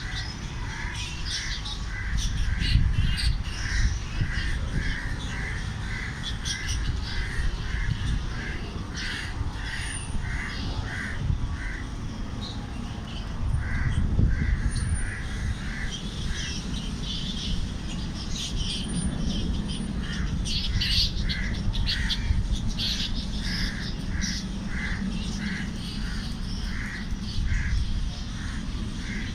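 Birds calling: a steady series of short, evenly spaced calls, about two a second, with a brief pause about halfway, over scattered higher chirps and a low rumble.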